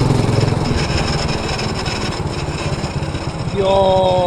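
Harbor Freight Predator 212cc single-cylinder four-stroke engine on a minibike running under load, with a fast, rasping pulse. Near the end a person yells over it.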